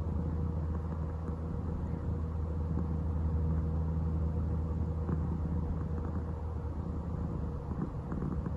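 Aeroplane passing overhead: a steady low rumble that holds throughout.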